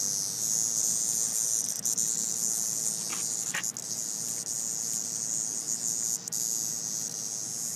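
Cicadas buzzing in a steady, high-pitched drone that does not let up, with a couple of faint short clicks about three seconds in.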